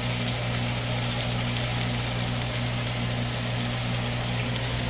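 Steady low motor hum under an even hiss of pancakes frying.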